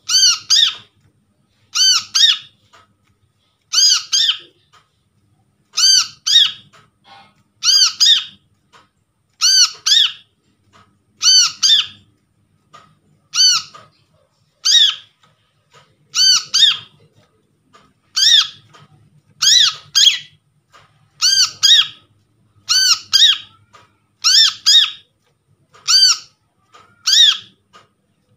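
Brown-throated sunbird (kolibri kelapa) calling: a short pair or trio of sharp, high chirps, repeated about every second and a half.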